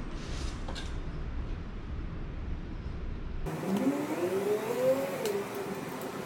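A steady low rumble, then, after a cut about three and a half seconds in, a motor vehicle's engine rising and then falling in pitch as it revs or passes.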